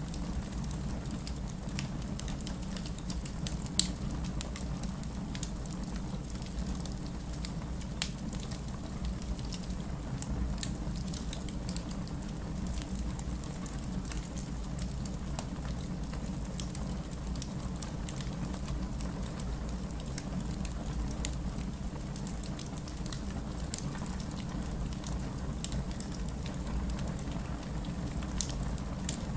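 Wood fire burning with a steady low rumble of flames and scattered crackles and sharp pops, the loudest about 4 seconds in and a few more near 8, 24 and 28 seconds.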